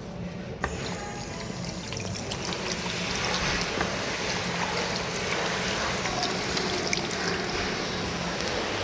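Tap running into an Armitage Shanks countertop washbasin: a click about half a second in as it comes on, then water splashing into the basin, building over the next two seconds and then steady.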